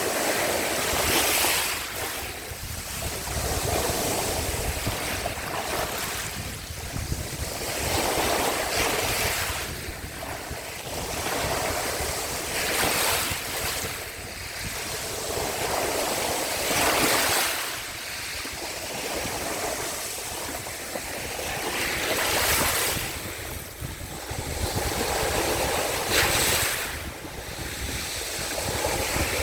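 Small sea waves washing ashore on the Sea of Azov, the surf swelling and falling back every few seconds, with a brighter splash at each break. Light wind buffets the microphone.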